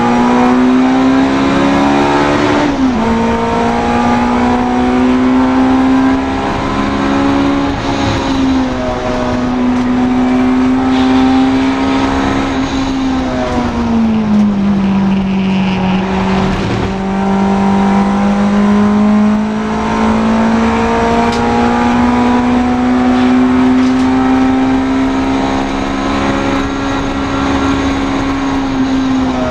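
Honda Integra DC2 race car's four-cylinder engine running hard at high revs, the pitch creeping up as it pulls. It drops sharply about three seconds in, as at a gear change. The pitch falls more slowly around the middle, then builds steadily again.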